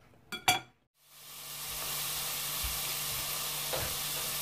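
Potato wedges deep-frying in hot oil: a steady sizzle that fades in about a second in. Just before it come two sharp knocks.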